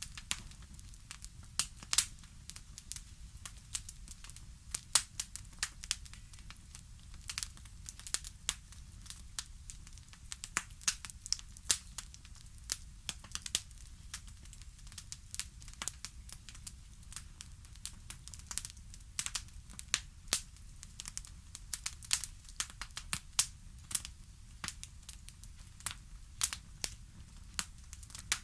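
Wood fire crackling: irregular sharp pops and snaps, many to the second at times, over a steady low rumble.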